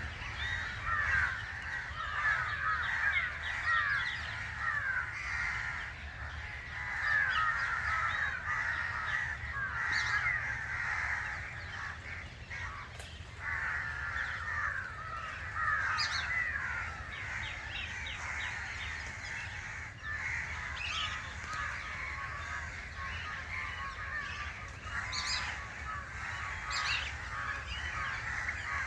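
Dense chorus of many birds calling at once: a steady mass of short, overlapping calls with no pause.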